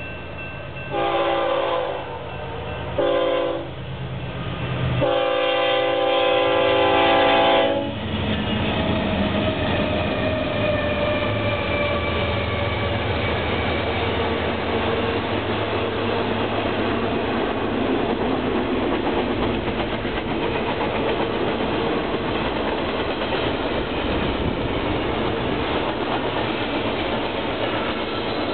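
Air horn of a BNSF freight train's lead diesel locomotive sounding three blasts, two short and a longer third, a warning for the grade crossing. Then a steady rumble and wheel clatter as the double-stacked container cars roll past at speed.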